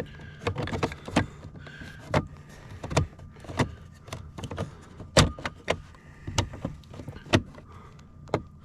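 Plastic door trim and switch panel being handled and pressed into place: a string of irregular sharp clicks and knocks, with a faint low steady hum underneath.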